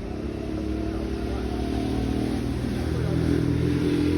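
A motor vehicle's engine running, growing louder, with a change in pitch about three seconds in.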